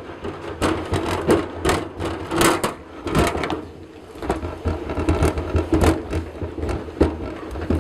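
Brushy Mountain 802 hand-cranked 9-frame radial honey extractor spinning, a steady low rumble with knocks about three times a second. The load of frames is off balance.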